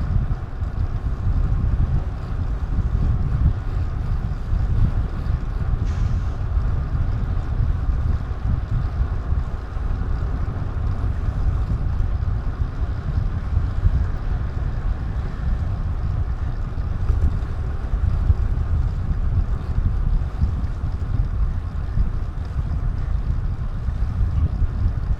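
Wind buffeting the microphone of a DJI Action 2 action camera while riding: a steady low rumble that neither rises nor falls.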